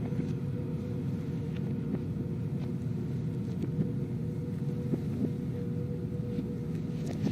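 A steady low rumble with a held hum and a few faint scattered ticks, from film sound played in reverse.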